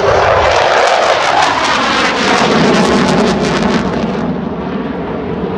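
Military jet flying past low and loud, its engine noise crackling and then sinking in pitch as it moves away.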